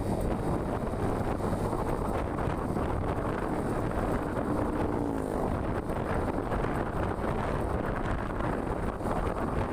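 Steady wind noise buffeting the microphone over the road and engine noise of a moving vehicle. A faint, brief tone rises out of it about five seconds in.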